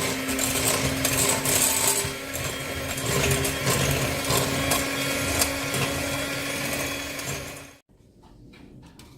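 Electric hand mixer running steadily, its beaters whipping eggs and sugar in a bowl until the mixture turns pale; it switches off suddenly near the end.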